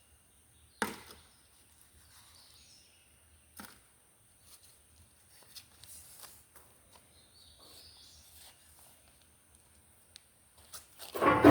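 Quiet outdoor ambience broken by a sharp knock about a second in and a weaker one a few seconds later; a louder, broader noise starts near the end.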